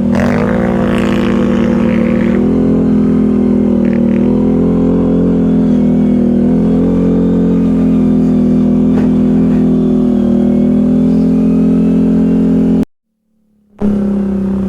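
ATV engine running steadily under way at a fairly constant speed, its note holding almost level with small shifts. Near the end the sound cuts out completely for about a second, then returns.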